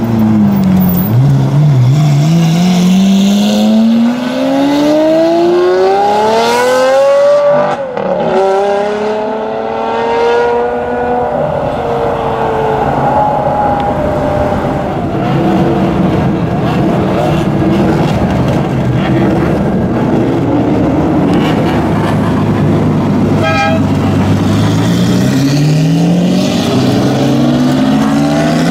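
Supercar engine accelerating hard, its pitch rising steadily for several seconds, then dropping sharply at an upshift about eight seconds in and climbing again before it fades into a steady low rumble of engines. Near the end another engine's pitch starts to rise as it revs up.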